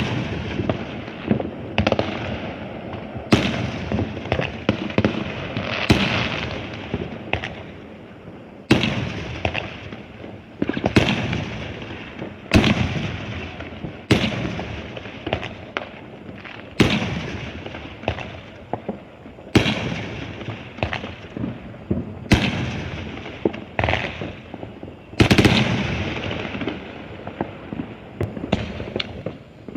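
Fireworks exploding in a steady string of sharp bangs, about one every second or two, each trailing off in a rolling echo, with crackling in between.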